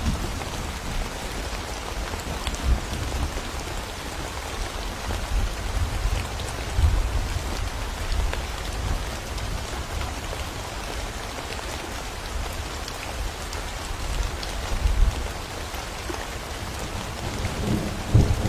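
Steady rain falling in a forest with low rolls of thunder rumbling in the background, swelling several times and growing stronger near the end.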